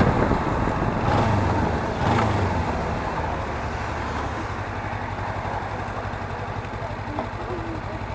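Suzuki V-Strom 250 motorcycle engine with wind rush that dies away over the first few seconds as the bike slows, settling to a steady, quieter low running.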